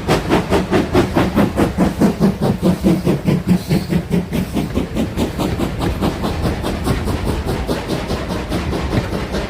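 A train running past with a rapid, even beat of about five strokes a second. It is loudest about two seconds in and then slowly fades.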